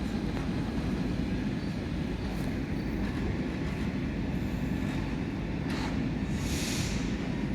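Train running past with a steady low rumble, with a brief hiss about six and a half seconds in.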